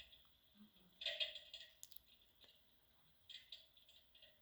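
Near silence: room tone with a few faint clicks and rustles, about a second in and again near three and a half seconds.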